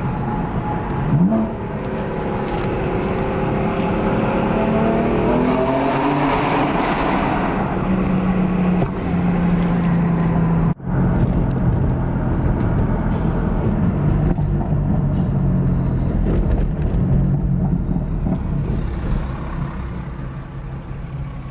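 BMW M4's S55 twin-turbo inline-six under hard acceleration, its pitch climbing steadily for several seconds. It then runs on at a steadier pitch, with a brief sudden cut-out about halfway through.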